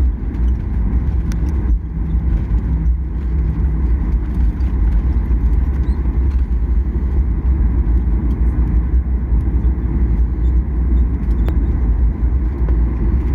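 Cabin noise of a Boeing 737-800 rolling on the ground after landing: a steady, loud low rumble with no distinct events.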